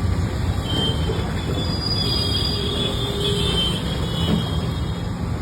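Steady low rumble of street traffic, with faint high-pitched tones for a second or two in the middle.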